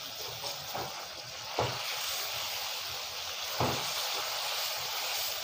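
Chicken and onion masala sizzling steadily in a metal karahi during the dry bhunai stage, fried without water, as a wooden spoon stirs it, with two or three knocks of the spoon against the pan.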